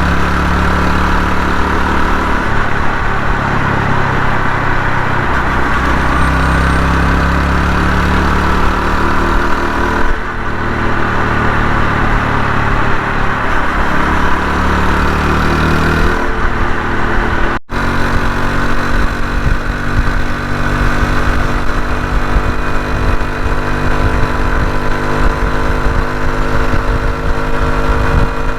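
Honda Hunter Cub's single-cylinder engine running under way, its pitch holding and then stepping up or down every few seconds, with strong wind rushing over the microphone. The sound cuts out for an instant about two-thirds of the way through.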